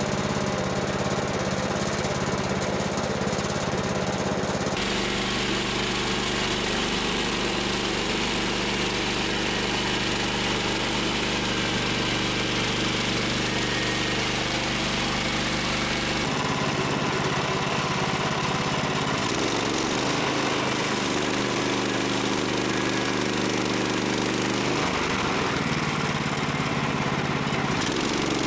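A portable bandsaw sawmill's small gasoline engine runs steadily. Its tone and pitch shift abruptly several times, as between separate clips.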